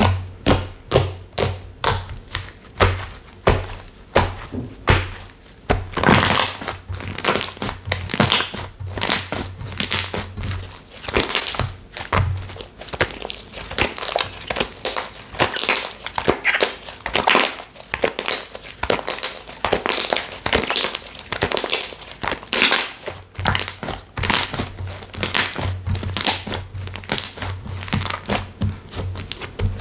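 Slime being squeezed, pressed and poked by hand, making a continuous run of sticky clicks, pops and crackles, about one or two a second.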